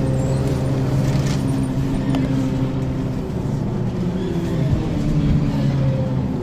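Diesel engine of a 1994 Ikarus 435 articulated bus with a ZF gearbox, running steadily under way: a steady low drone whose pitch shifts a little.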